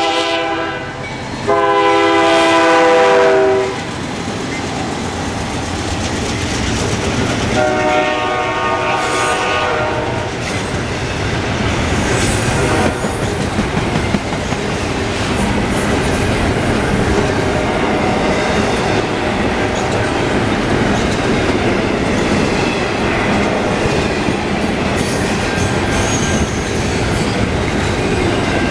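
Diesel locomotive air horn sounding in chords: one blast ends just after the start, a long blast comes about two seconds in, and a fainter one about eight seconds in. Then the container well cars of a freight train roll past with steady wheel noise and a rhythmic clickety-clack over the rail joints.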